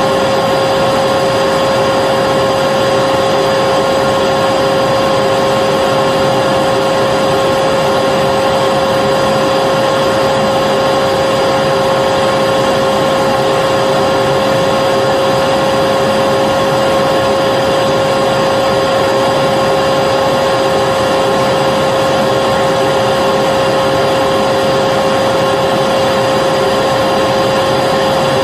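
Vacuum cleaner running continuously, a steady loud rush of air with a constant whine on top that never changes in pitch or level.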